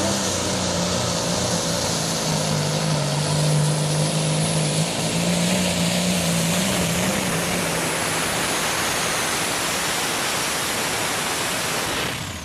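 Light modified pulling tractor's engine running hard at near-constant pitch under full load during a pull, with a heavy hiss of exhaust and machinery noise, then cutting off sharply about twelve seconds in as the run ends.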